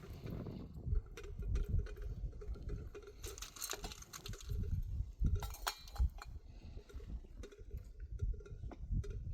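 Irregular knocks and clinks, with a few sharper clattering bursts around the middle, over a low rumble.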